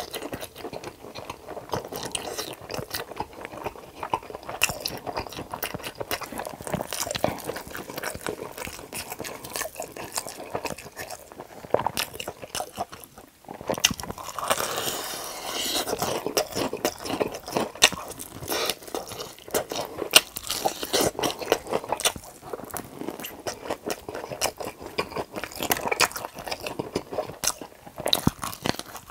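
Close-miked eating of crispy batter-fried chicken drumsticks: crackly crunching bites of the fried coating and wet chewing. A short lull about thirteen seconds in, then a denser run of crunching.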